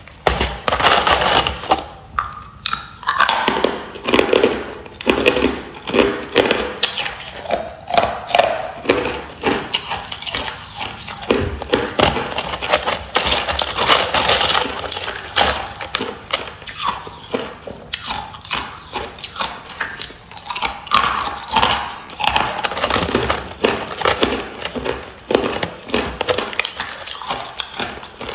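Hard clear ice being bitten and crunched between the teeth, close to the microphone: a steady run of sharp cracks and crunches, about one loud bite a second.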